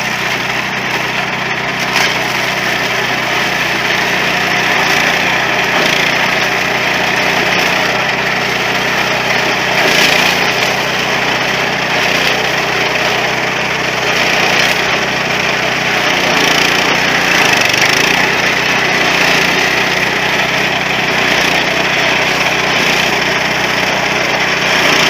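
Mini corn combine harvester running steadily under power, its engine hum overlaid by the dense rattling noise of the machine, with a couple of faint knocks.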